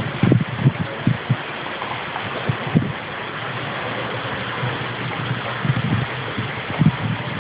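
Heavy rain pouring steadily in a thunderstorm, with irregular gusts of wind thumping on the microphone.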